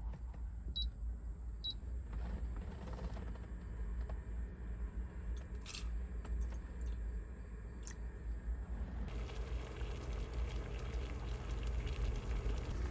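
Strong wind buffeting a parked car, heard from inside the cabin as a steady low rumble. Two short high beeps sound about a second in, and a few faint clicks come later.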